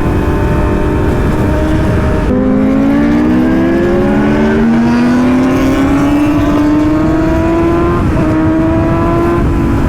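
Motorcycle engine accelerating hard through the gears: the pitch climbs steadily, drops at an upshift about two seconds in, climbs again and breaks at another shift near eight seconds. A heavy rumble of wind and road noise runs underneath.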